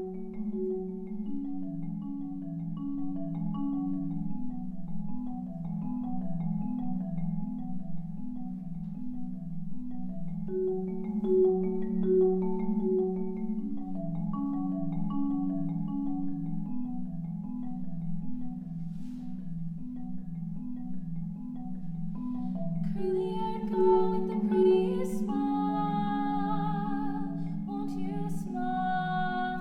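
Solo marimba playing a steady, flowing pattern of repeated low mallet notes, with a higher melody line above. Near the end, higher notes and a wavering sustained tone thicken the texture.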